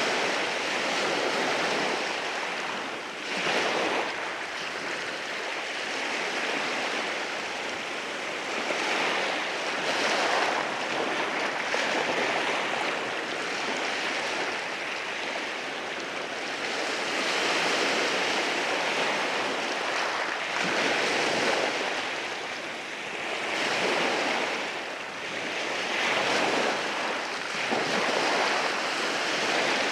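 Sea waves washing in over rocks and draining back, a continuous surf that swells and eases every few seconds.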